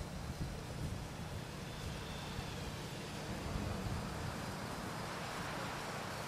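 Microwave oven running with a steady low hum, an acorn squash cooking inside; a soft hiss builds in the second half.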